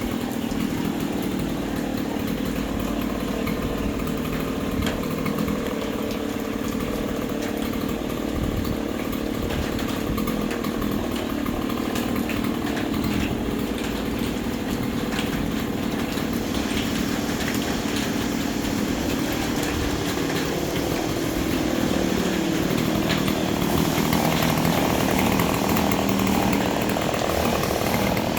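Chainsaw running continuously while cutting up a fallen tree, its engine pitch wavering and the sound growing a little louder in the last several seconds.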